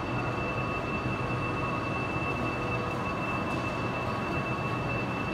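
Chinese high-speed electric multiple-unit train moving slowly past a station platform: a steady low rumble with a thin, unchanging high-pitched whine over it.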